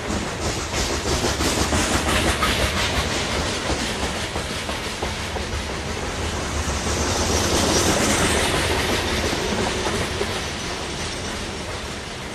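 Freight cars of a coke train rolling past, wheels clacking over the rail joints over a steady rumble. The sound swells louder with a high hiss about two-thirds of the way in, then eases off.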